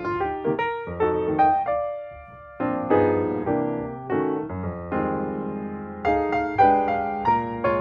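Background piano music: chords struck and left to decay, a new chord every second or so.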